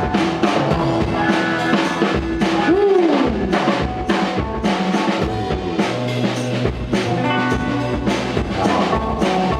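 A live rock band playing, led by a drum kit beating steadily with other instruments; about three seconds in one held note bends up and falls back down.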